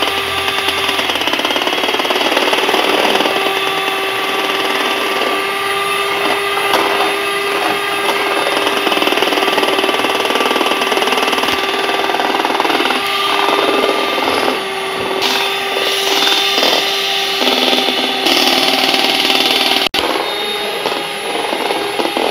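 Electric hand mixer running steadily with a constant whine, beating egg whites and sugar syrup until they foam. The sound drops out for an instant near the end.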